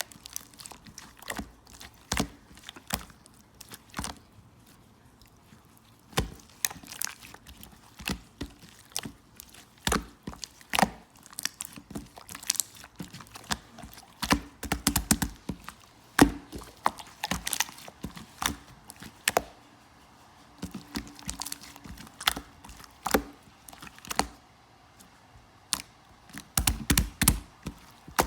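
Hands playing with slime: it is pressed, poked and stretched, giving irregular sticky clicks and pops, with denser clusters of crackling now and then.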